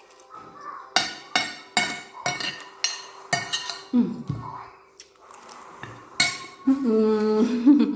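Cutlery clinking and scraping against a plate in a quick run of strikes as the last of the rice and stew is gathered up. A short hummed voice sound comes about four seconds in and again near the end.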